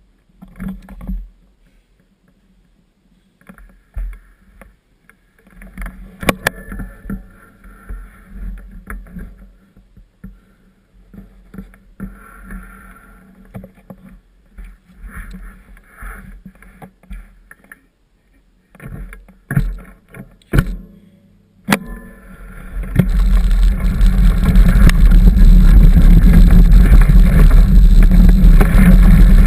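A mountain bike rattling and knocking over a rough dirt trail. About three-quarters of the way through, a loud, steady rush of wind on the microphone sets in as the bike gathers speed.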